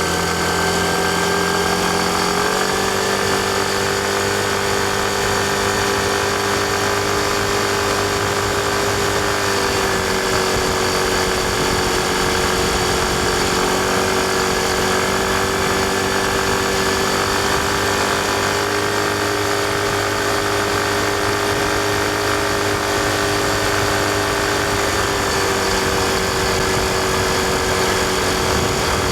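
Yamaha Fazzio scooter's 125 cc single-cylinder engine running steadily under way at a fairly even speed. Its pitch steps up slightly a couple of seconds in and drops back about twenty-five seconds in.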